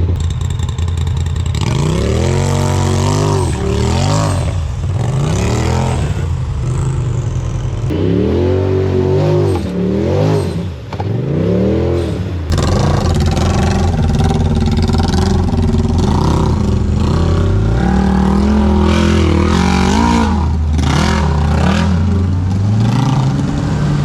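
Side-by-side UTV engine revving hard under load, the throttle pumped in quick repeated rises and falls, then held higher with slower swells in the second half.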